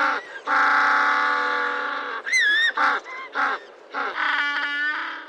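African penguins braying: short honking calls, then a long drawn-out bray starting about half a second in. More short calls follow, then another long, pulsing bray near the end.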